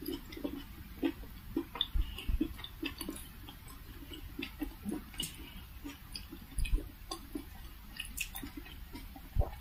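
A person chewing a steamed vegetable momo with her mouth closed: soft, wet smacks and small clicks, coming irregularly.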